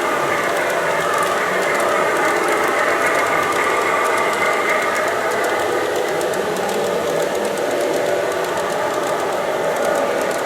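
G-scale LGB model train running along the garden track: a steady running noise from motor and gearing, with rapid light clicking from the wheels on the rails.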